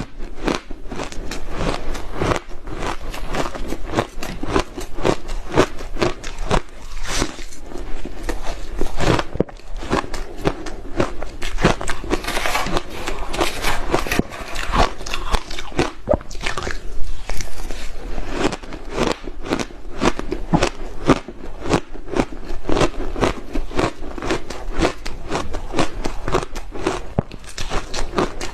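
Hard ice being bitten and chewed close to the microphone: a continuous run of loud, rapid crunches, several each second.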